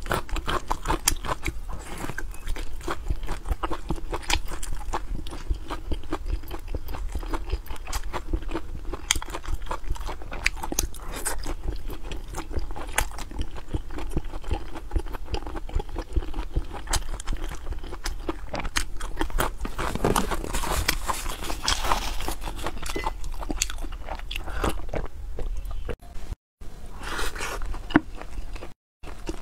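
Close-miked eating: a person biting and chewing crunchy food, with dense irregular crunches and mouth sounds throughout. The sound cuts out briefly twice near the end.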